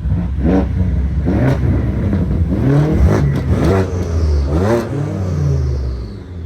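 A car engine being revved hard about five times in quick succession, each rev rising and then dropping in pitch. A high whine falls away near the end.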